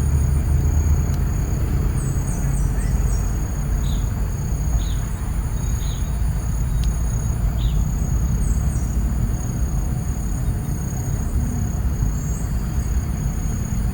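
Lakeside nature ambience: a steady low rumble under a continuous high-pitched insect drone. A bird gives short chirps about once a second through the middle.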